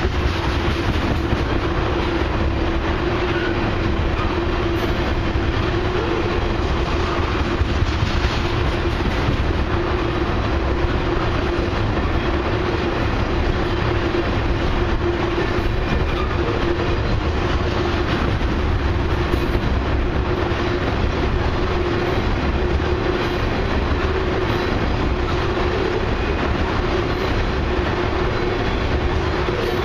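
Loaded crude oil tank cars of a long freight train rolling steadily past, with the clickety-clack of steel wheels on the rails and a steady low rumble.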